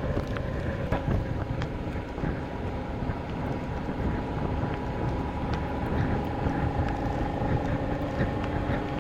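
Motorcycle riding in heavy rain: the engine runs at a steady pace under wind noise rushing over the microphone, with scattered small ticks of raindrops.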